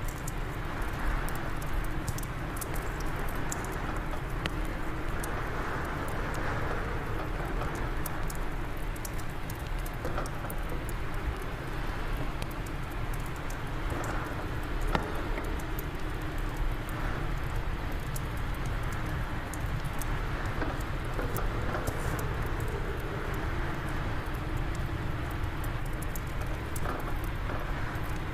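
Wood fire crackling in a fireplace, with frequent small irregular pops, over a steady rush of wind.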